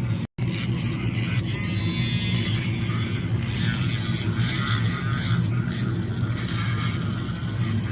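A steady machine hum with a low drone, cutting out for an instant a split second in.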